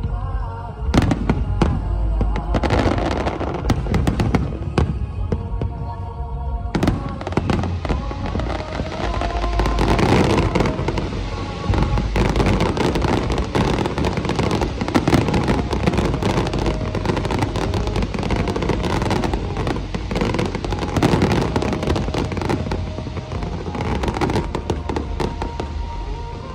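Aerial fireworks bursting and crackling in rapid succession, one shell after another, over music that accompanies the display.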